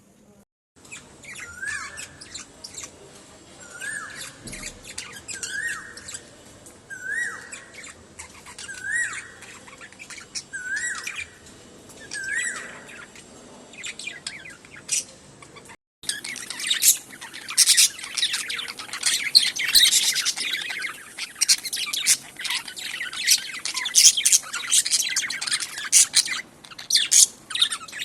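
Pet budgerigars calling. In the first half a rising call repeats about every second and a half to two seconds. After a brief break about halfway through comes dense, loud budgie chattering and warbling.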